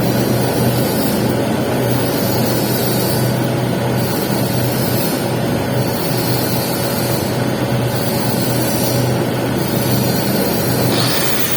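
Arc welding on pipe: a steady crackling hiss from the welding arc over a low continuous hum, the high hiss swelling and easing about every two seconds.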